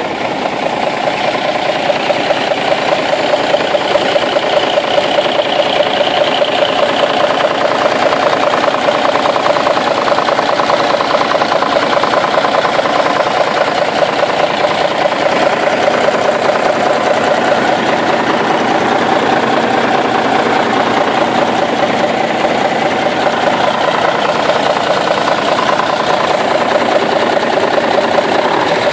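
The 1989 Kenworth T800's big cam Cummins inline-six diesel running steadily with a fast, even clatter, running smoothly.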